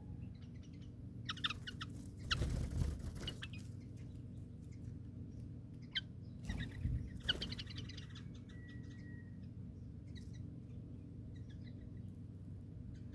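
Small birds chirping in quick runs of short, high calls, with two louder noisy bursts in between and a steady low hum underneath.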